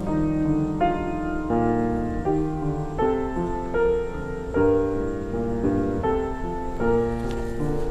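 Slow keyboard music of held chords, changing roughly every half second to a second.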